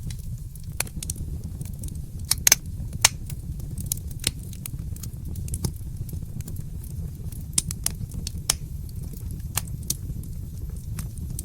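Wood fire crackling in a fireplace: irregular sharp pops and snaps, a couple of louder ones about two and a half and three seconds in, over a steady low rumble.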